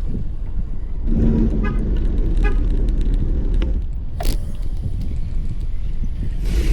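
Steady low rumble of wind and road noise on the microphone while riding outdoors, with a sharp click about four seconds in.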